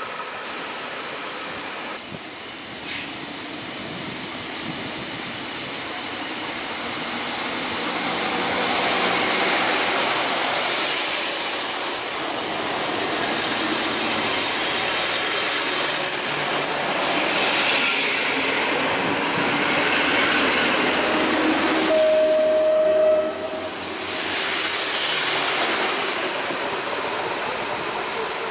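Diesel multiple unit running along the platform close by, its engine and wheel noise swelling over several seconds and staying loud. About two-thirds of the way through comes a short, steady single-pitched tone, then the noise dips, swells once more and fades as the railcar moves away.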